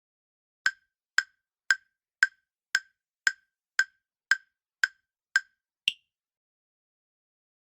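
Countdown timer sound effect: ten short wood-block-like ticks about two a second, ending in one higher-pitched tick as time runs out.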